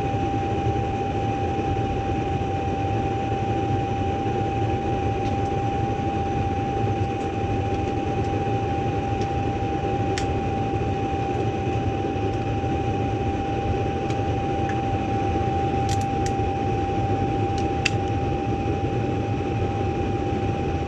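Gas furnace running on its second heating stage: the steady rush of the blower fan and burners, with a constant whine over it and a few faint clicks.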